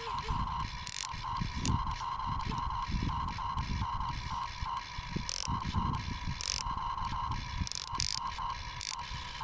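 Small electric gear motors of a radio-controlled construction model whining in short, stop-start spurts as the controls are worked, with a few sharp clicks. Low rumbles underneath.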